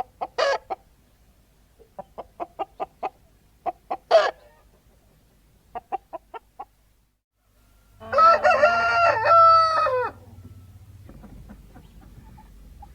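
Chickens clucking in short runs of quick clucks with a few louder squawks, then a rooster crowing once for about two seconds, about eight seconds in.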